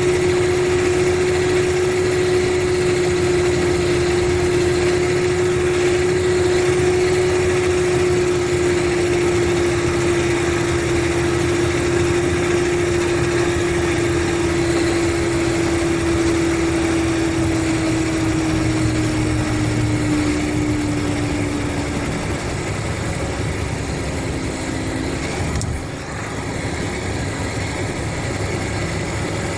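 Mercedes-Benz O500RSD coach (Busscar Jum Buss 360 body) running, with a steady whine over the engine noise that slowly drops in pitch and fades about two-thirds of the way through, as when the bus eases off and slows.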